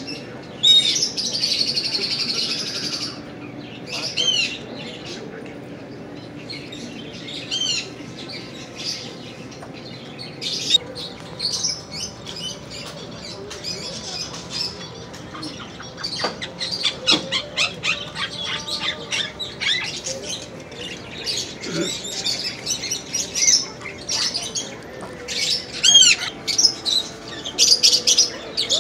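Cage birds chirping and squawking, with short arching calls repeated every few seconds and a harsh squawk about a second in, turning into rapid, busy chirping in the second half.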